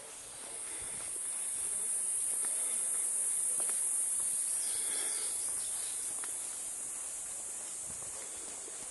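Rainforest insect chorus: a steady, high-pitched shrill buzz that swells in the middle and eases off again, with a few faint ticks beneath it.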